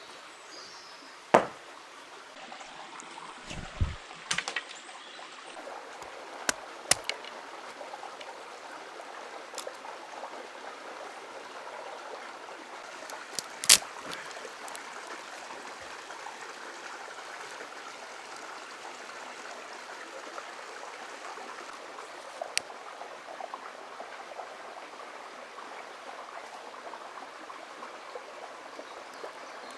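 River water flowing steadily over stones, with a few sharp knocks scattered through it, the loudest about halfway through.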